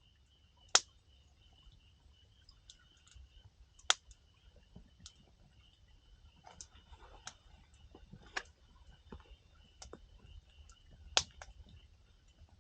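Wood fire crackling, with irregular sharp pops from the burning firewood, four louder snaps among many small ticks.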